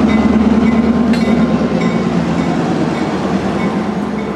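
A train running on the Lehigh Gorge Scenic Railroad, its railroad cars rolling with a steady, loud rumble. A single sharp click comes about a second in, and the sound eases off slightly near the end.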